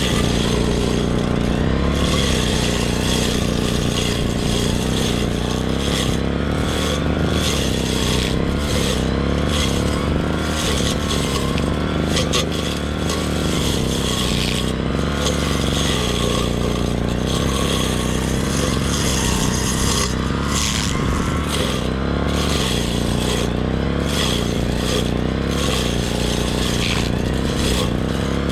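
Grass-cutting brush cutter's small engine running steadily at working speed, its note wavering up and down slightly as it cuts.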